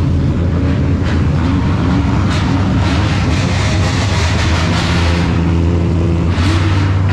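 Drift cars' engines idling together, a loud steady low drone, with another engine note joining for a couple of seconds past the middle.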